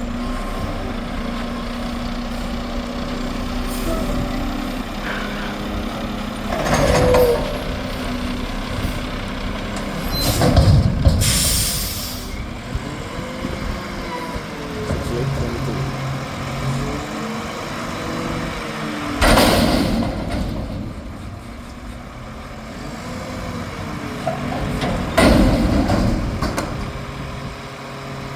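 Mack McNeilus front-loader garbage truck's diesel engine running as it manoeuvres in traffic, with a few short loud hisses typical of air brakes.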